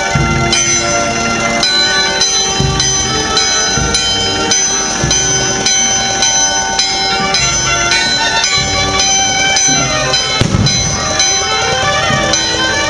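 Church bells ringing a festive peal, with overlapping strokes every half second to a second and the tones ringing on between them.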